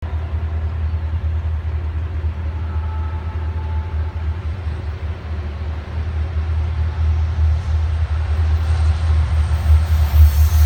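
Low, steady rumble of a diesel train locomotive, growing louder over the last few seconds as it comes closer.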